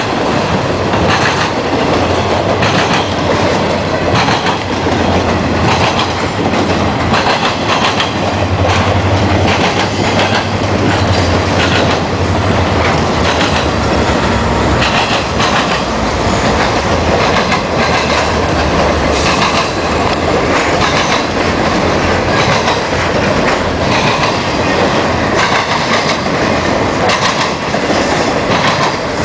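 Intermodal freight train of semi-trailers on flatcars passing close at speed: a steady rumble of steel wheels with repeated clickety-clack as the trucks cross rail joints. A low diesel drone from Union Pacific locomotives passing on the adjacent track lies underneath until about two-thirds of the way through.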